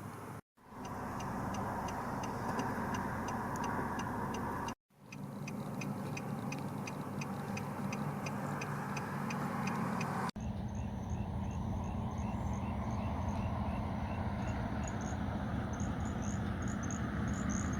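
Steady low engine-like hum with short, evenly repeating high chirps from calling night animals, about three a second, changing to a slower chirp of about two a second after a sudden cut about ten seconds in. The sound breaks off abruptly twice in the first five seconds.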